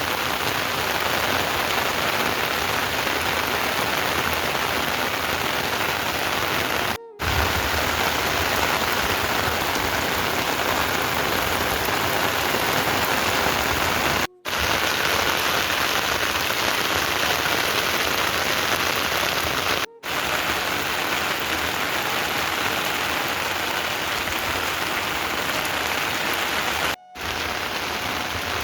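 Heavy rain falling steadily in a dense, even hiss, broken four times by a brief drop-out where the recording cuts.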